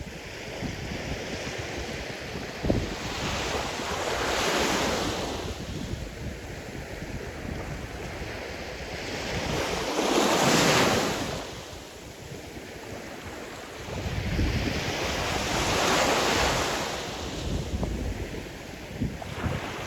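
Sea surf: waves breaking and washing in, swelling about every five to six seconds, with wind buffeting the microphone as a low rumble.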